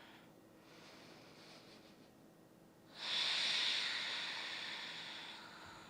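A person breathing deeply while holding a stretch: a faint inhale, then a long audible exhale starting about three seconds in that slowly fades away.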